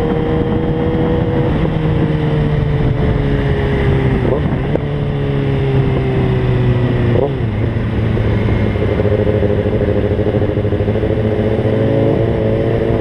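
Kawasaki ZX-6R inline-four sport bike engine running at steady highway cruising speed, with wind and road rush. Its pitch slowly sags, with two quick rev changes about four and seven seconds in.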